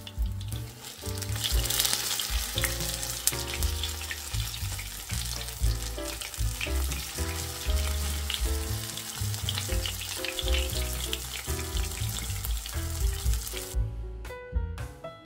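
Cauliflower fritters sizzling in hot oil in a frying pan, under background music. The sizzling stops sharply about 14 seconds in, leaving only the music.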